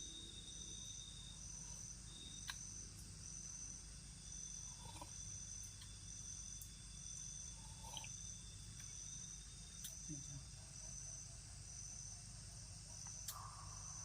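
Night insect chorus of crickets: a high chirp pulsing about one and a half times a second over a steady high-pitched buzz, with a few faint clicks.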